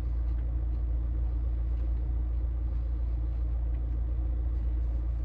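Steady low rumble of a car engine idling, heard from inside the cabin, with an even hum and no change in pitch.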